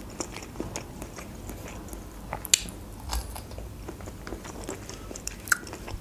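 Close-miked chewing of a soft bite of manti (steamed meat dumpling) with the mouth closed: a run of faint wet mouth clicks, with two sharper clicks about two and a half and five and a half seconds in.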